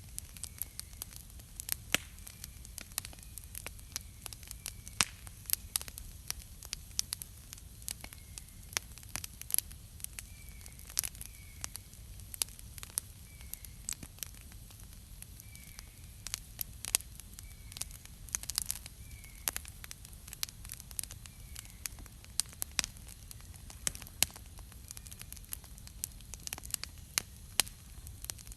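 Wood campfire burning, crackling with frequent sharp pops over a low steady rumble. Faint short high chirps repeat in the background.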